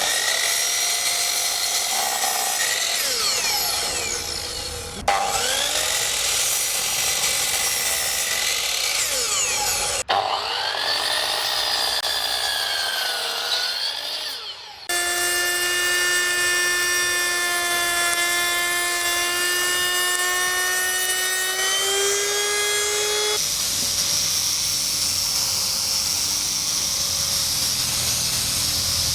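Woodworking power tools cutting timber in a series of short cuts: saw blades whining, their pitch dipping and recovering as they bite into the wood, then a machine running with a steady whine that rises near its end, and finally a higher, noisier whine.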